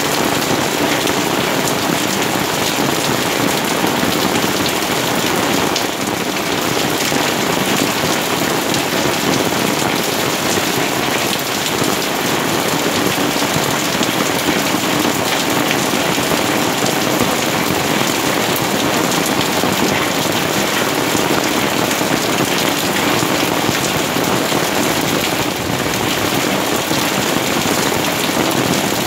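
Rain falling steadily on garden plants, grass and stone stepping-stones. It makes an even, unbroken sound of many drops.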